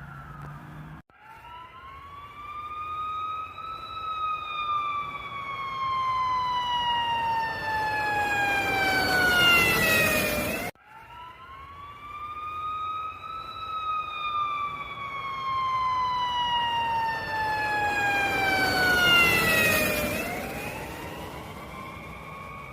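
Emergency-vehicle wail siren: a rising then long, slowly falling wail that grows louder with a rush of noise toward its end. It cuts off abruptly midway and the same wail starts over.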